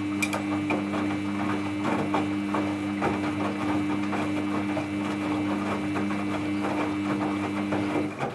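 Samsung EcoBubble front-load washing machine tumbling its load during the rinse: a steady motor hum with a busy clatter of wet clothes and water in the drum, stopping suddenly near the end.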